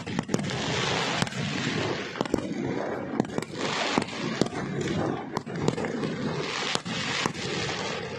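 Fireworks display: many sharp bangs and cracks at irregular intervals over a continuous rushing noise.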